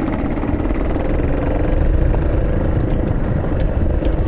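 An engine running steadily: a continuous low rumble with a steady hum.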